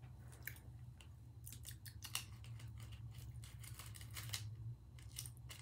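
A crisp biscuit being chewed close to the microphone: a run of short, crisp crunching clicks, thickest in the middle, over a steady low hum.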